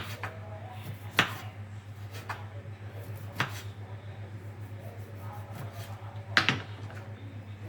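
A knife slicing a lemon on a cutting board: sharp knocks roughly once a second, then a pause before a quick double knock near the end, over a steady low hum.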